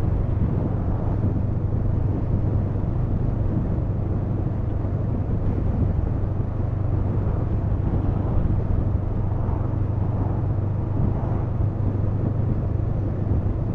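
Honda CMX500 Rebel's engine running at a steady cruise, with a constant low drone under road and wind noise.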